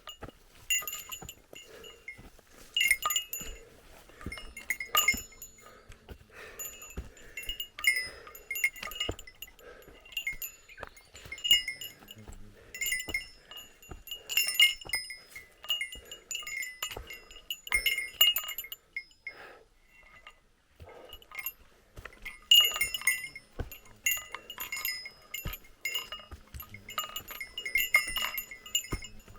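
Small metal bell, a hiker's bear bell, jingling in uneven clusters of rings as the wearer walks. The jingling stops briefly about two-thirds of the way through.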